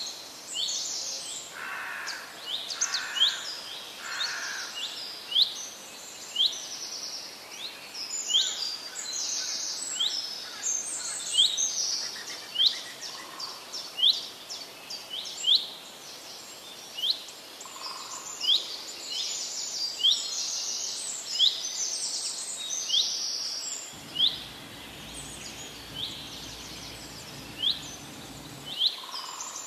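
Birds calling: short, high, sharp chirps repeated about once a second, mixed with bursts of faster trills.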